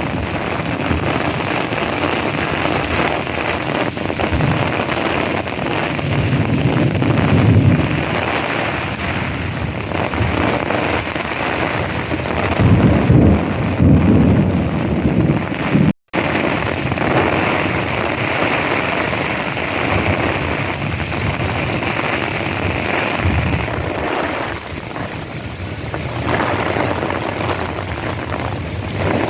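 Heavy monsoon rain pouring down steadily, with low rumbling swells now and then. The sound cuts out for an instant about halfway through.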